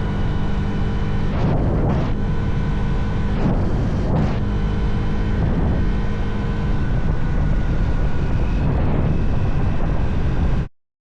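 Motorcycle engine running at a steady note while riding, with heavy wind rumble on the microphone. The engine note is briefly smeared by noise a few times in the first four seconds.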